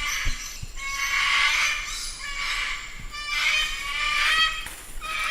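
Cockatoo screeching: a run of repeated screeches in several bouts.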